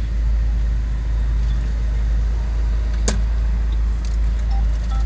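Car engine idling, heard inside the cabin as a steady low drone, with one sharp click about three seconds in.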